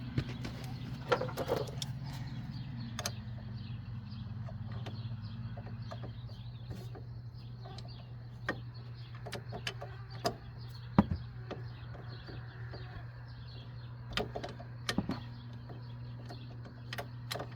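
Scattered clicks and knocks of hand tools working on a car's front wheel hub, the sharpest about eleven seconds in, over a steady low hum.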